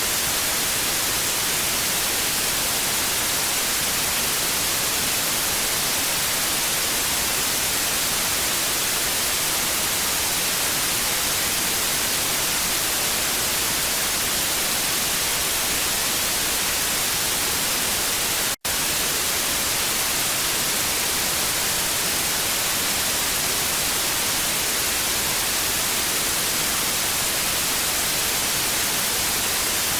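Steady TV static hiss, an even rushing noise strongest in the highs, cut by one split-second dropout about two-thirds of the way through.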